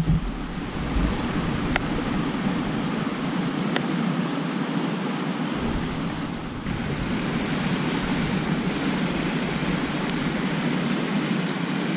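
Steady rushing noise of wind and water, with a low thump right at the start.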